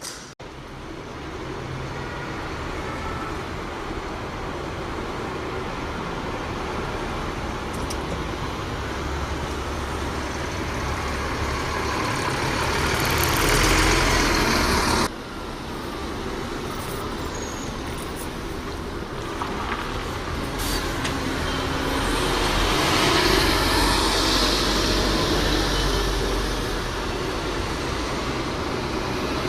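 Diesel buses running past with engine and road noise. The noise builds to a loud peak, cuts off abruptly about halfway, then builds again to a second peak.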